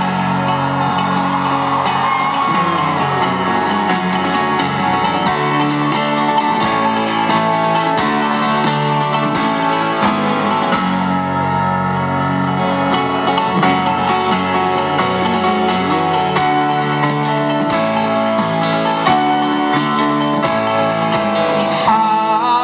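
Live band playing an instrumental passage with guitars: sustained chords and held notes, loud and continuous.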